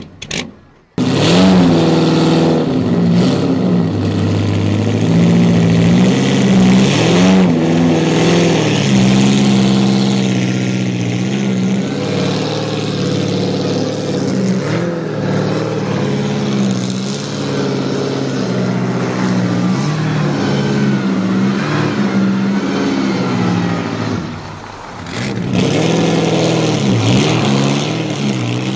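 Bugatti Type 35's 2.0-litre single-overhead-cam straight-eight running and being revved as the car drives off at low speed. The revs waver in the first few seconds, hold fairly steady for a long stretch, drop back briefly near the end, then rise again. The sound cuts out briefly about half a second in.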